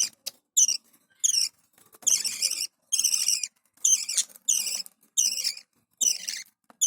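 Parrots giving high, squeaky calls over and over, about one every half second.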